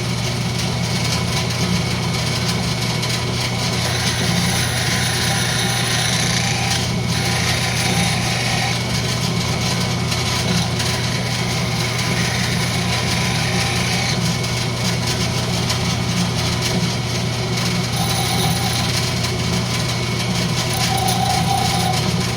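Wood lathe running with a steady motor hum while a turning tool cuts the spinning rosewood, the higher cutting noise rising and falling as the tool works. The cuts trim down a rosewood tenon that has come out tapered.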